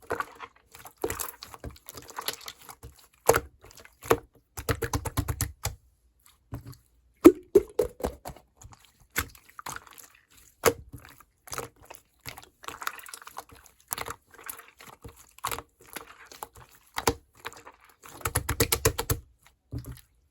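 Irregular clicks and taps of small objects being handled, with two runs of quick rattling, one about five seconds in and one near the end.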